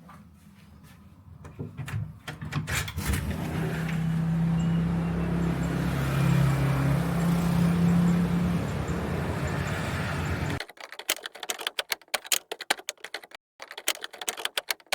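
A road vehicle's engine running with a steady low hum and traffic noise, building up over the first few seconds. It cuts off abruptly about two-thirds of the way in, and a run of sharp clicks and rattles follows.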